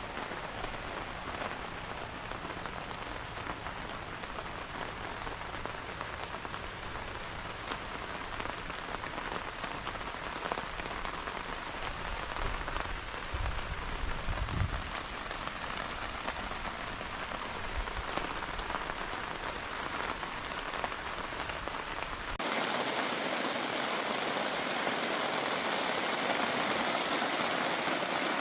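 Heavy rain falling in a steady downpour, with a low rumble near the middle. About two-thirds of the way through, the sound changes abruptly to a brighter, louder rain hiss.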